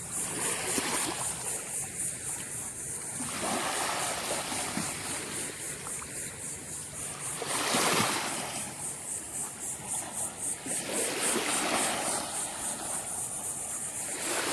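Small Gulf surf waves breaking and washing up the sand, swelling and fading every few seconds, loudest about eight seconds in.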